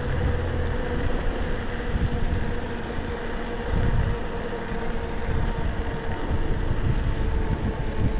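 Wind rushing over the microphone and tyre noise while riding an e-bike, a steady rumble with a faint steady hum running under it.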